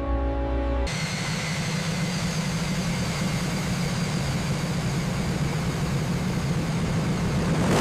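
Jet engine running steadily, a low rumble under a high, even whine. It starts suddenly about a second in as music stops, swells slightly near the end, then cuts off abruptly.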